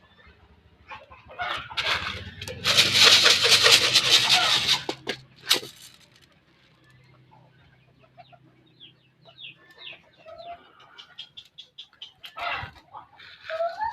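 Domestic birds: a loud, noisy flurry from about two to five seconds in, then a run of short, high clucking calls in the second half.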